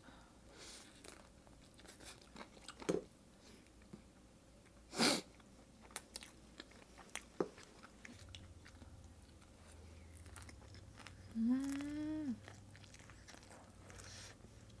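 Close-miked chewing of a steamed Korean dumpling (mandu): soft, wet mouth clicks and smacks. A short breathy noise about five seconds in, and a brief hummed "mm" near the end.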